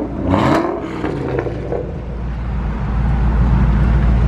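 Car engine revving up briefly about half a second in, then settling into a steady low drone as the car drives on.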